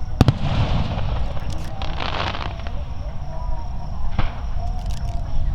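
Aerial fireworks bursting: a sharp bang just after the start, crackling shell effects over the next two seconds, and another bang about four seconds in, over a steady low rumble.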